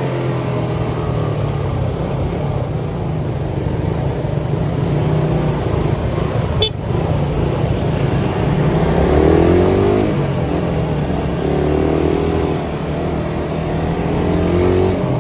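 Suzuki Satria FU 150's single-cylinder four-stroke engine running through an aftermarket CBU Thailand exhaust, its pitch rising twice in the second half as it revs up. A single sharp click comes about halfway through.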